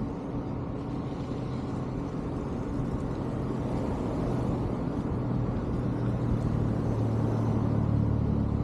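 Motor vehicle engine running steadily with road noise, a low hum that grows a little louder and deeper over the last few seconds.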